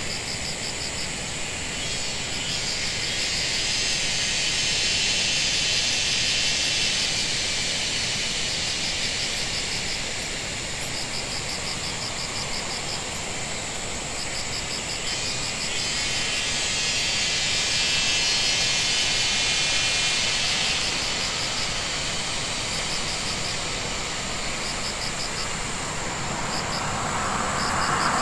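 Outdoor ambience: insects chirping in short trains of rapid pulses, repeating every few seconds, over a steady hiss that swells twice and fades again.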